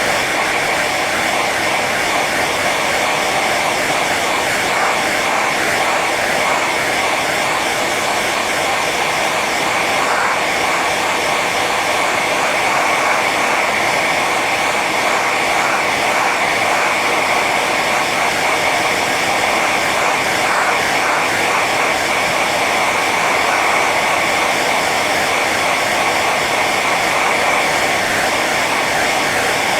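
Hair dryer running steadily on its high setting: an even, loud rush of blown air over the motor's whine, with a steady high tone near the top.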